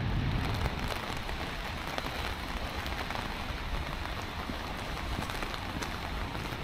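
Steady rain falling on wet pavement and foliage, an even hiss with scattered small drop ticks.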